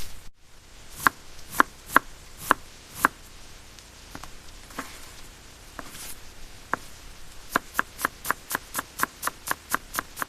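Knife chopping on a cutting board. A few separate strokes come first, then a quicker steady run of chops, about three or four a second, near the end.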